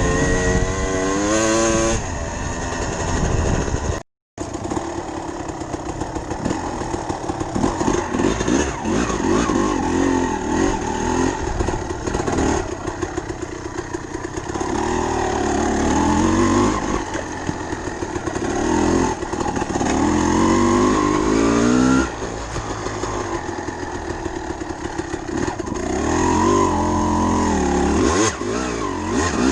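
Dirt bike engine running under load, its revs climbing and falling again and again as it is ridden. There is a brief cut to silence about four seconds in.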